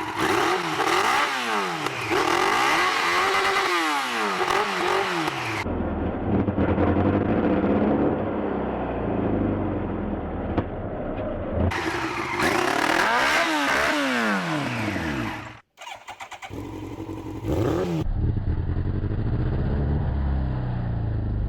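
Motorcycle engine revving up and falling back several times, with stretches of steadier running between. The sound changes abruptly at a few cuts.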